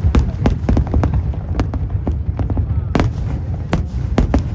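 Aerial fireworks exploding in quick, irregular succession: about a dozen sharp bangs over a steady low rumble.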